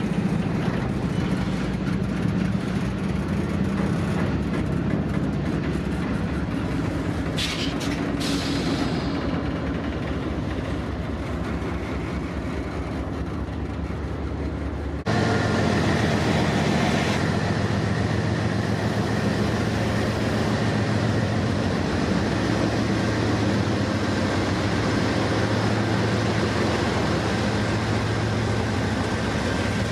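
Double-stack intermodal well cars rolling past with steady wheel-on-rail rumble and a few sharp clanks. About halfway through it cuts abruptly to the louder, steady drone of GE wide-cab diesel locomotives running.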